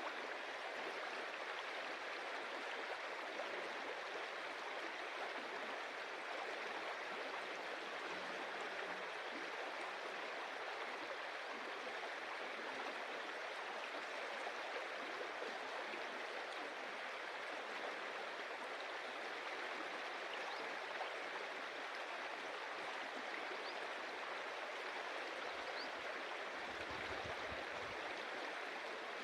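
Stream water running steadily over stones.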